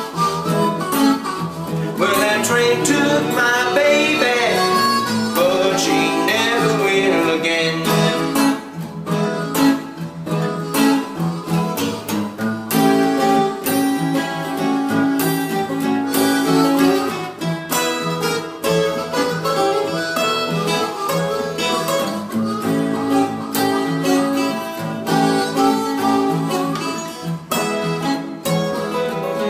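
Blues band playing an instrumental break on harmonica and guitar. For the first several seconds the harmonica wails with bent, wavering notes; after that, plucked guitar notes carry the tune with the harmonica behind.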